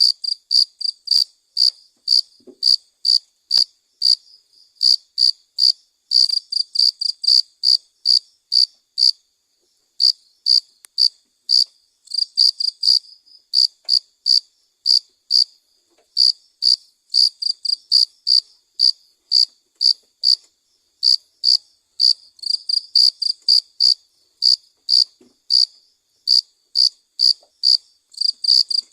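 Cricket chirping: short, high chirps repeated about two to three times a second, with a brief pause about nine seconds in.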